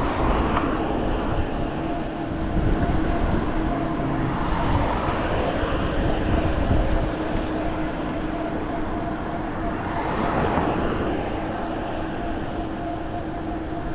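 Steady road and tyre noise of a moving car heard from inside the cabin, with a constant low hum and a few gentle swells as traffic goes by.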